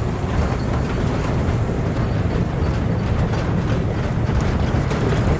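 Engine of a farm machine running steadily under load, a dense low rumble with rattling noise over it, as it is driven down into a rice paddy.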